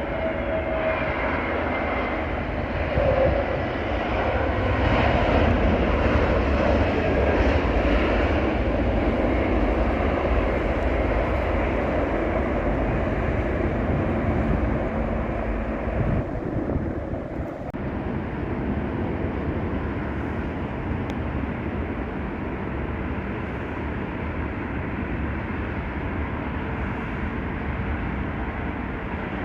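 Jet airliner's engines as it passes on its landing approach, a dense rumbling noise that grows loudest a few seconds in, then eases and fades away.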